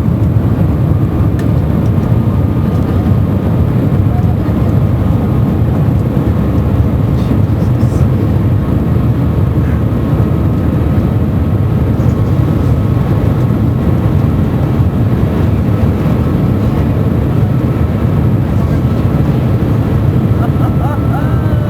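Steady, loud rushing rumble inside the cabin of the Shanghai Transrapid maglev train running at high speed, heavy in the low end with a faint steady whine above it.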